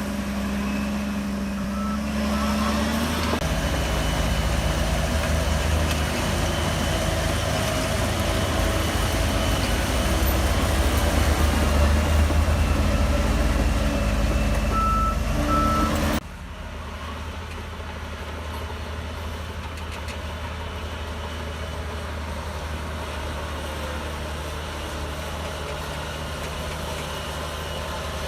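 Heavy diesel engine of a Shantui DH17C3 bulldozer running hard under load, with short pairs of reversing-alarm beeps about two seconds in and again near the middle. About sixteen seconds in the sound drops abruptly to a quieter, steady engine rumble.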